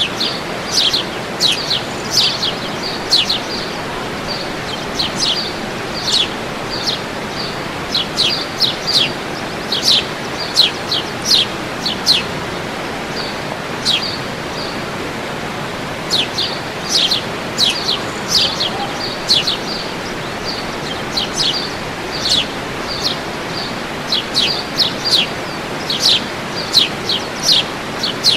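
A bird singing short, high, downward-sweeping chirps in quick clusters, with pauses of a few seconds between them, over the steady rush of a waterfall.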